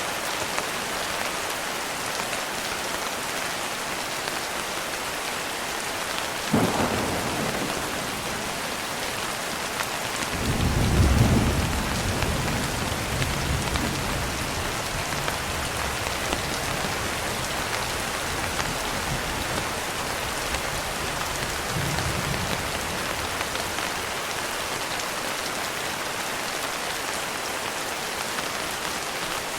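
Steady heavy rain falling, with thunder: a sharp thunderclap about six seconds in, a louder low rumble starting around ten seconds in, and a fainter rumble a little past the middle.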